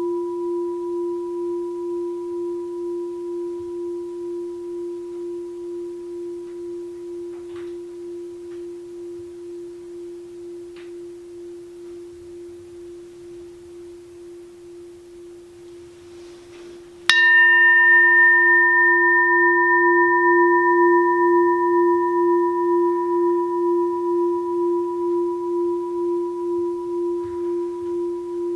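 Six-sun (about 18 cm) Daitokuji rin, a Japanese Buddhist bowl bell, ringing on with a low, wavering tone and higher overtones, slowly fading. A little past halfway it is struck again: a sharp strike sets it ringing loudly once more, the high overtones dying first and the low wavering tone lingering.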